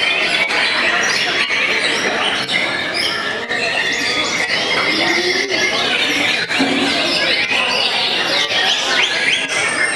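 Many caged white-rumped shamas singing at once, a dense, unbroken tangle of overlapping whistles, trills and chirps.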